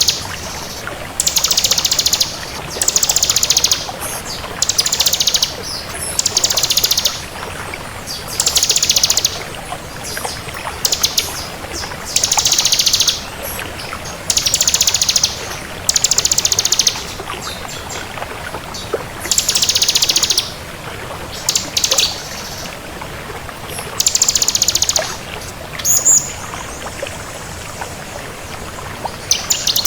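Ciblek kristal (bar-winged prinia) singing: rapid, buzzy trilled phrases of about a second each, repeated every two seconds or so with short pauses.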